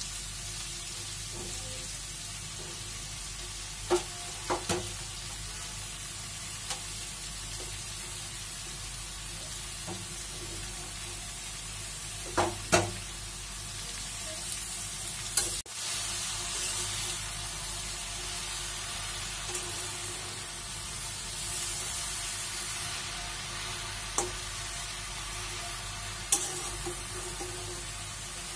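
Chopped sweet potato leaves frying in oil in a metal wok, a steady sizzle, while a metal spatula stirs them and now and then clacks sharply against the pan.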